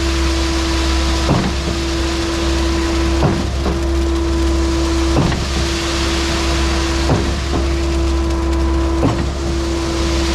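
Skid-steer-powered concrete pump running: a steady engine and hydraulic drone, with a knock and short falling sweep about every two seconds as the pump strokes. There are five knocks in all.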